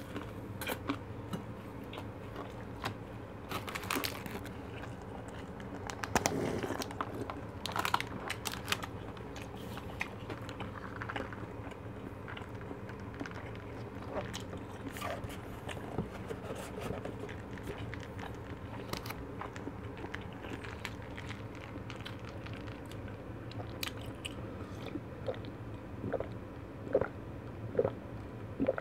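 Close-miked chewing and biting of fried fish cake and fried food, a scatter of small crunches and wet mouth clicks. Near the end come three short gulps of juice being drunk. A steady low hum runs underneath.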